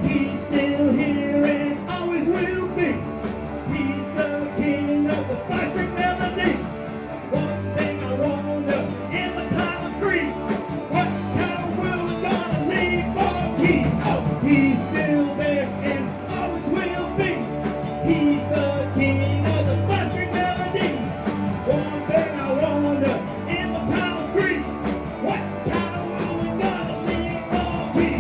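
Rock and roll band music played without words, the band carrying on with guitar over a steady beat.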